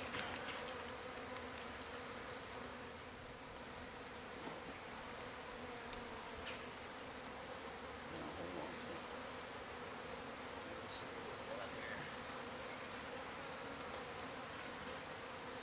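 A honey bee colony buzzing steadily: a mass of bees stirred up while their comb is cut out of the hive and moved to a nuc box.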